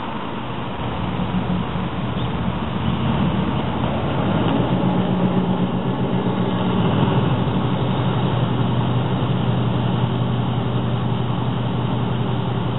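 2004 Pontiac GTO's LS1 V8 running through long-tube headers and straight pipes with the catalytic converters deleted: a steady, low exhaust note. It grows louder over the first few seconds, then holds.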